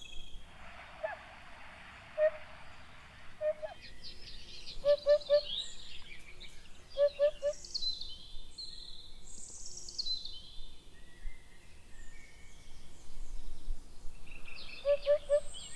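Birds calling in open country: a low three-note hooting call repeated three times, about two seconds apart and again near the end, over several higher, falling whistled notes. A steady hiss runs through the first three seconds or so.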